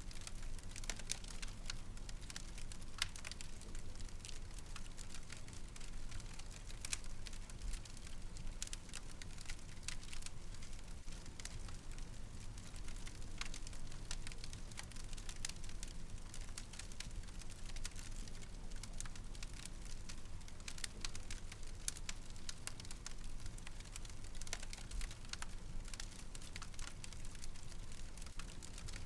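Wood fire crackling, with frequent irregular sharp pops and snaps over a low steady rumble of flames.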